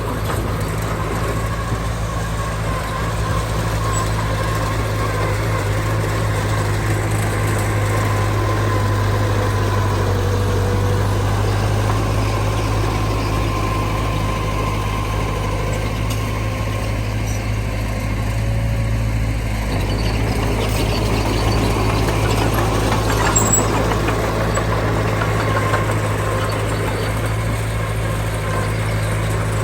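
Heavy diesel earthmoving machinery, a dump truck and bulldozer, running steadily. The sound grows busier after about 20 s, with a brief click near 23 s.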